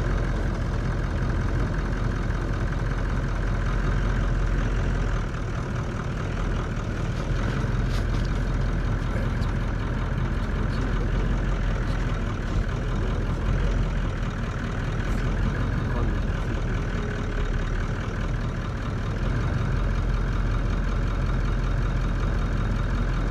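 Vehicle engine running steadily with a deep, low rumble.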